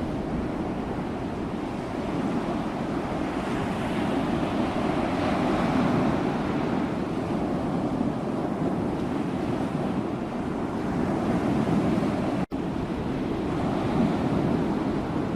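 Ocean surf: waves breaking and washing in as a continuous roar that swells and eases every few seconds. A split-second dropout comes about three-quarters of the way through.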